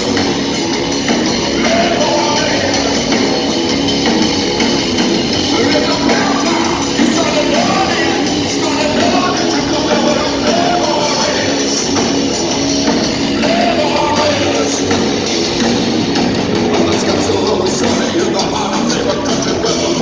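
Rock band playing live at full volume: distorted electric guitars, bass and drums, with a pitched line that is singing or a lead guitar.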